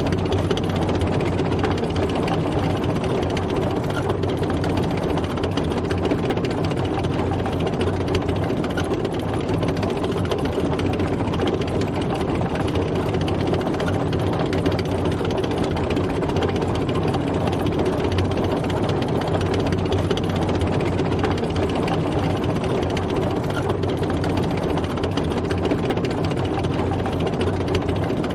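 Tank driving: its engine runs at a steady pitch, with a rough mechanical rattle over it and no change in speed.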